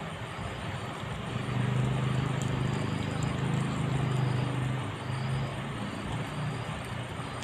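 A motor vehicle passing, its low engine hum swelling about a second and a half in and easing off after about five seconds, over a steady hiss.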